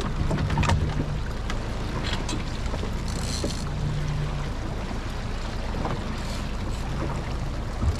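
Suzuki DF60A four-stroke outboard running steadily in a low hum, with wind and water noise around the boat and a few sharp clicks.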